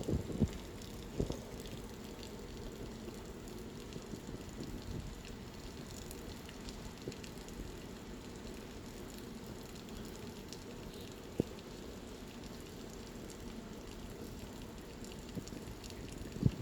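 Steady monsoon rain pouring, a dense even patter, with a few sharper, louder drops ticking now and then: twice near the start, once around eleven seconds and once near the end.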